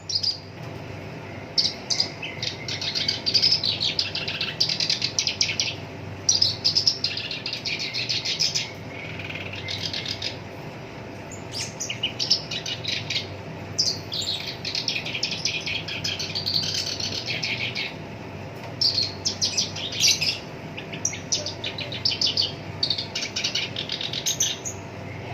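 Black-browed reed warbler singing a rapid, harsh, chattering song in phrases of one to three seconds with short pauses between them. A steady low hum runs underneath.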